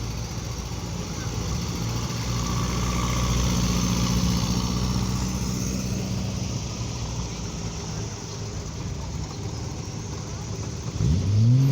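Car engines running slowly in a queue, with a steady low hum that swells for a few seconds. Near the end one engine rises and falls in pitch as it revs or pulls past.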